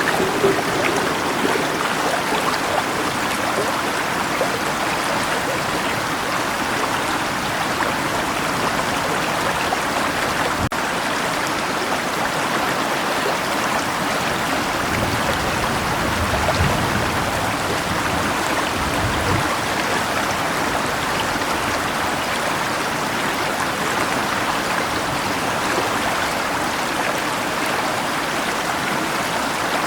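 River water running with rain falling, a steady even wash of water noise, with a faint low rumble about halfway through.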